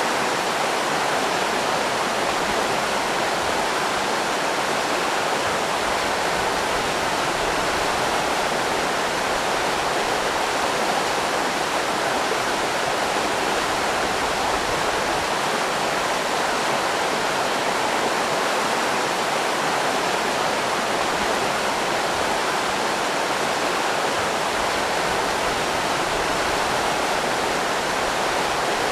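River rapids rushing steadily, an even, unbroken water noise.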